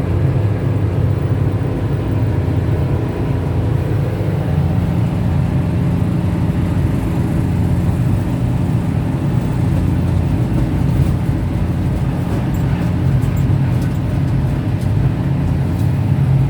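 Steady low rumble of a passenger train carriage in motion, heard from inside, running evenly without a break.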